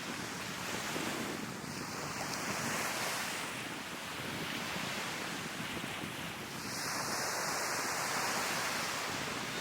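Sea waves breaking and washing up on the shore, swelling twice, about a second and a half in and again about seven seconds in, with wind on the microphone.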